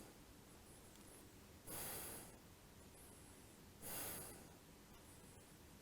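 A person breathing audibly through the nose while holding a yoga backbend: two short, hissy breaths about two seconds apart, one a couple of seconds in and one about four seconds in, over a quiet room.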